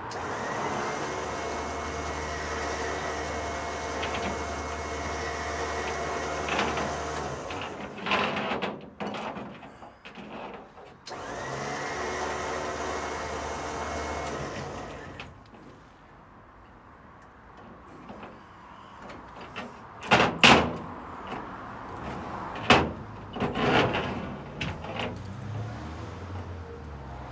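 Electric winch motor on a recovery truck running, winding the cable back onto the drum: a steady whine that rises in pitch as it starts, in two runs of about seven and four seconds. A few sharp knocks follow near the end.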